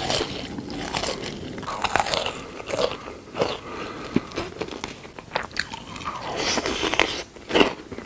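Close-miked biting and chewing of crunchy food, with irregular crunches and crackles.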